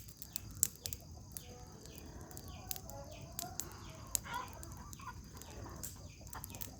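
Wood bonfire crackling with frequent sharp snaps, while chickens cluck a few times in the background.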